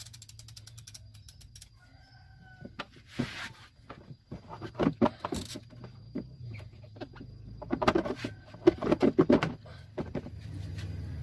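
Chicken clucking in clusters of short rapid calls, loudest from about eight to nine and a half seconds in. A quick run of even clicks opens it.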